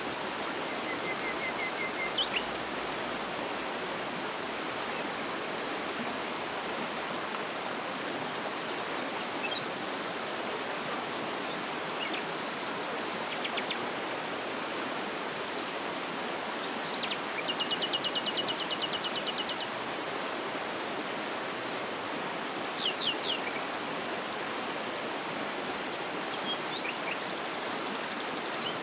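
Waterfall rushing steadily, with songbirds calling over it: short chirps now and then, and a fast trill about two-thirds of the way through.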